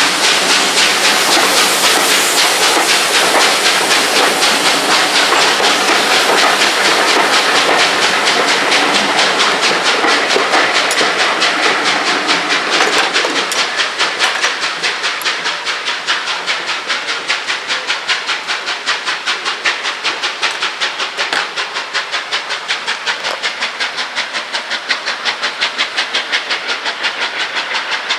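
Steam locomotive working out of the station: a steady, rapid rhythm of exhaust beats over loud hissing steam. It grows quieter from about halfway through.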